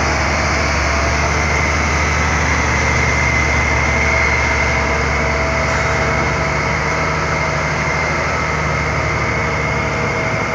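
Heavy truck's diesel engine running steadily at low revs, with a thin, steady high whine over it.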